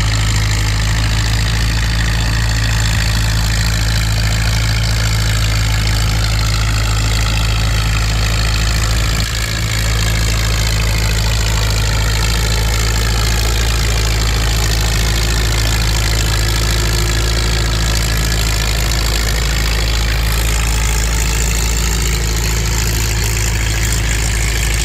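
Antique tractor engines running: a Minneapolis-Moline 5-Star working under load on the pull, its pitch slowly sagging and then rising again, over a constant low engine drone.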